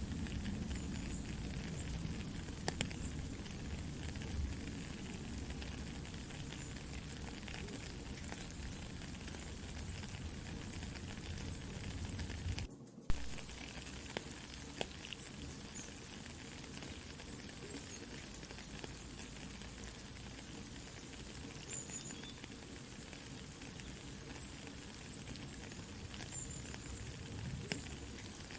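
Soft rain falling steadily, with a campfire crackling and popping in scattered sharp clicks. Near the middle the sound drops out for an instant, followed by a sharp pop.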